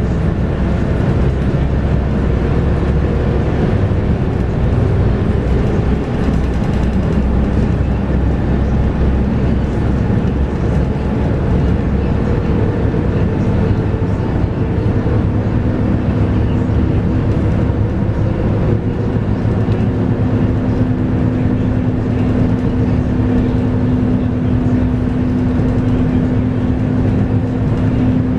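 Scania K230UB city bus under way, heard on board: its 8.9-litre five-cylinder Scania DC9 diesel and ZF Ecomat six-speed automatic gearbox running with steady road noise. A steady tone comes in about halfway through and holds.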